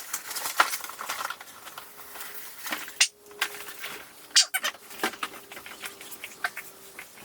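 Cardboard box and packaging being opened and handled: irregular crinkling and rustling, with a few sharp snaps and clicks.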